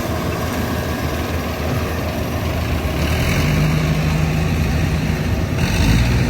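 Rice combine harvester engines running steadily in the field. About three seconds in, a deeper engine hum joins and holds, and near the end the sound briefly gets louder.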